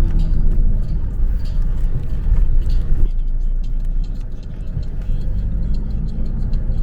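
A car on the move, a steady low rumble of engine and road noise, with the sound changing abruptly about three seconds in.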